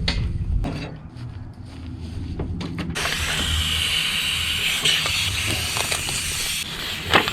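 A tire being inflated: clicks and knocks as the air fitting is handled, then a steady hiss of air starting about three seconds in, over a low steady hum.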